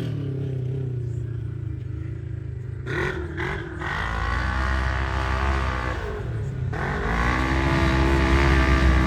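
Vehicle engine revving hard as it accelerates on a drag run. Its pitch climbs, drops briefly about three seconds in and again around six and a half seconds, then climbs again, like gear changes, growing louder toward the end.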